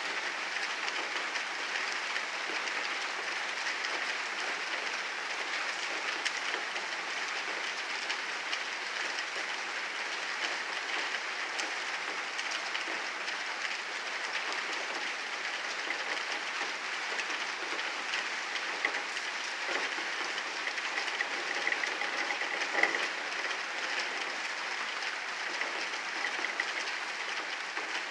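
Heavy rain of a thunderstorm pouring down steadily, an even hiss full of small drop ticks, with a sharper knock about 23 seconds in.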